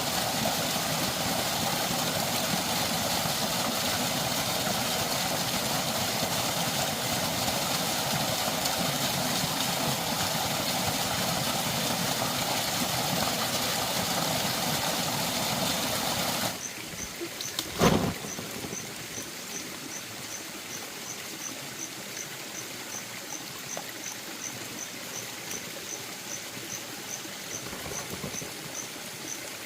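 A loud, steady rushing noise cuts off suddenly more than halfway through. A single sharp knock follows, then quieter flowing water with a faint, regular high chirp repeating about three times a second.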